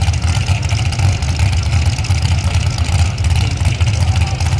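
Pro street pulling truck's engine running loud and steady.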